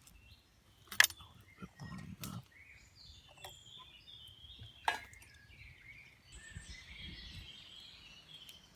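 Birds singing in the woodland, the chirping growing busier from about six seconds in. Two sharp clinks, about a second in and near five seconds, with a soft low thud around two seconds.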